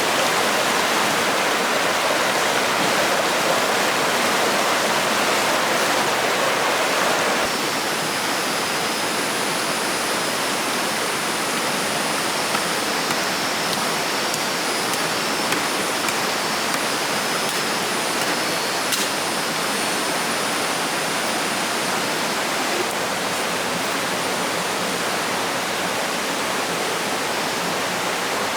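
Steady rush of flowing water, a little softer and duller from about seven seconds in. A faint high, steady thin tone sits above it through the middle stretch.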